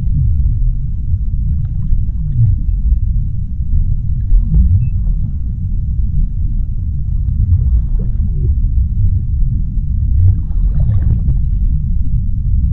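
Underwater sea ambience: a steady, deep rumble of water noise with faint scattered crackles above it.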